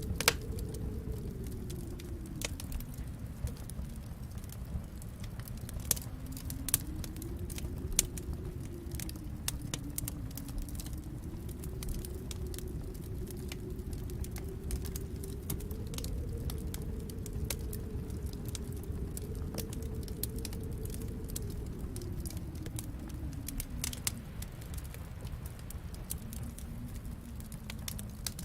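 Wood fire crackling in a fireplace, with frequent sharp pops over a low rumble. Behind it a storm wind howls, slowly rising and falling in pitch.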